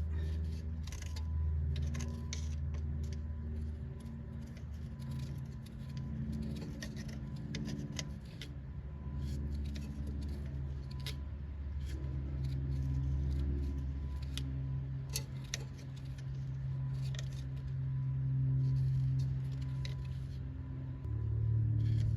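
Steady low machine hum, with light metallic clicks and rattles scattered throughout from handling tools and parts.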